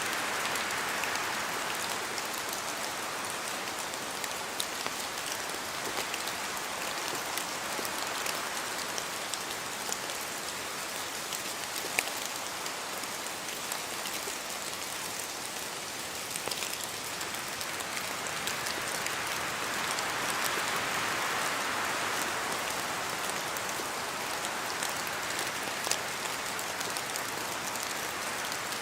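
Steady rain in a spruce forest, with countless drops pattering and ticking as they fall from the branches. Wind in the trees swells, most strongly about twenty seconds in.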